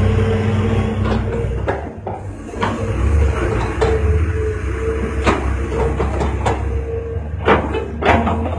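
Excavator and dump-truck diesel machinery running: a steady low engine rumble with a steady whine over it, and about half a dozen sharp knocks and clanks spread through.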